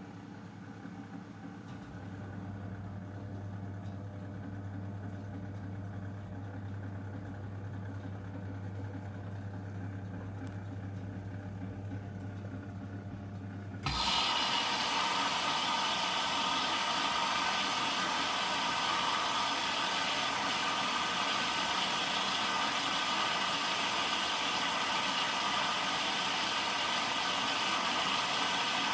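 Zanussi DL22 washing machine running a 90-degree boil wash. A steady low hum gives way, about halfway through, to an abrupt, much louder rushing noise that carries on steadily.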